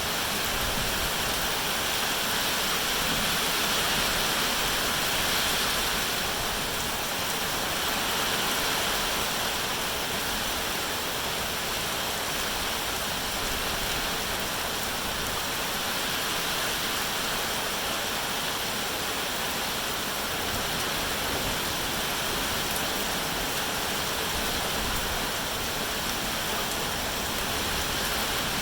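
Steady heavy rain: a dense, even hiss of falling water with no separate drops standing out.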